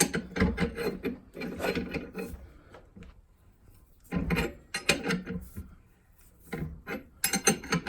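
Ball joint press being worked to force the lower ball joint out of a Dana 60 steering knuckle. It makes irregular, noisy mechanical bursts in three spells, with pauses about three and six seconds in. The joint is close to breaking free of the knuckle.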